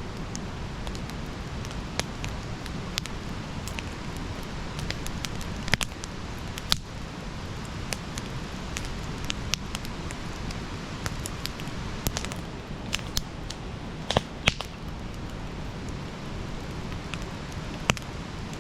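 Campfire crackling: a steady hiss of burning wood with irregular sharp pops and snaps, a louder pair coming in quick succession about fourteen seconds in.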